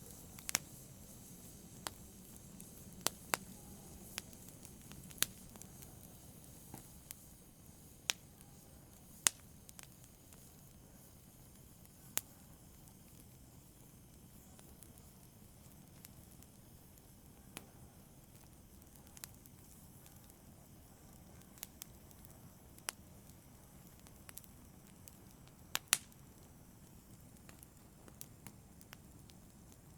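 Wood fire burning in a fireplace, a faint low hiss with scattered sharp crackles and pops, more frequent in the first third and a quick double pop near the end.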